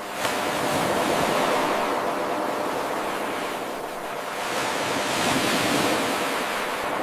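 Ocean waves washing in as a steady surge of surf, swelling twice and easing between. About a quarter second in the sound jumps abruptly louder where the 8-second wave recording loops back to its start.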